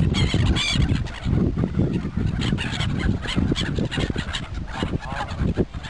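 A flock of pond birds crowding close and calling over one another. A high call comes near the start and a falling call about five seconds in, over a dense run of short knocks and rustles.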